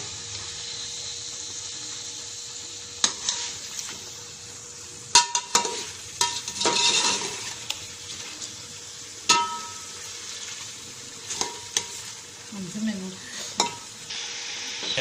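Chicken frying in oil with a yogurt marinade, sizzling steadily while the liquid cooks off. A spoon stirs and scrapes the pan, knocking against it about half a dozen times.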